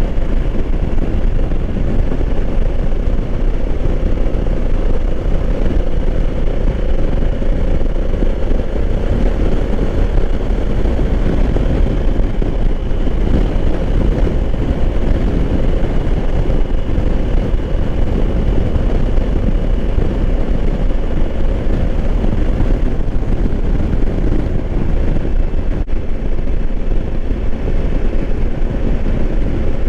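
Onboard sound of a 2020 Honda Africa Twin being ridden at a steady speed: heavy wind rush over the microphone with the parallel-twin engine's even drone underneath, no revving or gear changes.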